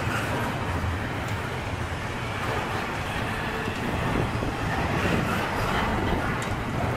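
Freight train rolling past with a steady rumble and rail noise.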